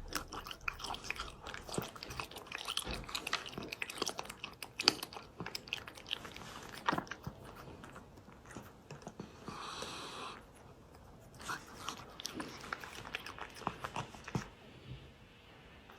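A cat eating its food, chewing with quick, irregular clicking bites.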